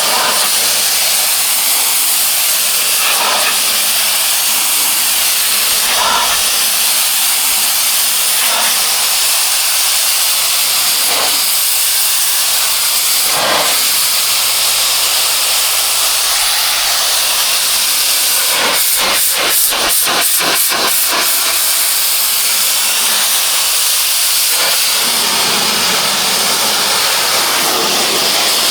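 Pressure washer jet spraying hard surfaces, a loud steady hiss of high-pressure water. About two-thirds of the way through it breaks into a short run of rapid pulses, roughly three or four a second, for a couple of seconds.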